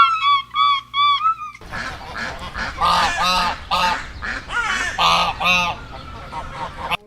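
A run of short whistled notes, about three a second, then about a second and a half in, a series of loud, harsh bird calls, several a second, over a noisy background.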